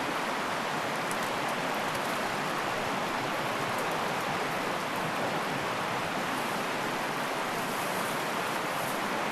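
Fast-flowing mountain river rushing: a steady, even wash of water noise with no change in level.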